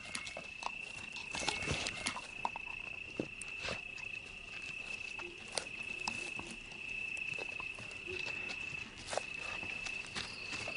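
A cricket chirring in one steady, high, unbroken trill, with scattered small clicks and snaps throughout.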